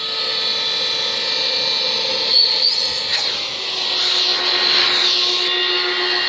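Shop vac running with its hose sealed into an intake port of a rebuilt motorcycle cylinder head, the motor's steady whine pitched up because the port is blocked: the new intake valve is holding vacuum and not leaking.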